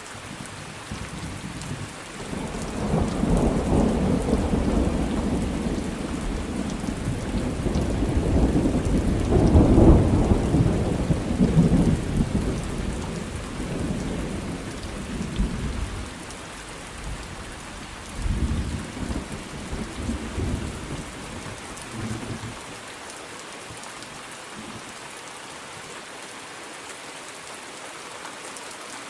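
Thunderstorm: steady rain falling, with a long roll of thunder that builds from about two seconds in, is loudest around ten seconds and dies away by sixteen, then a shorter, weaker rumble a few seconds later.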